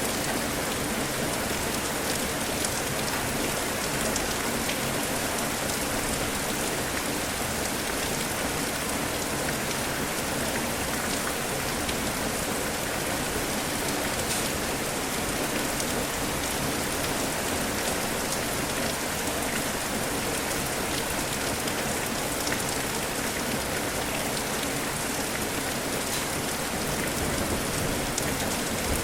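Steady rain falling, an even hiss of rain with scattered individual drops ticking through it.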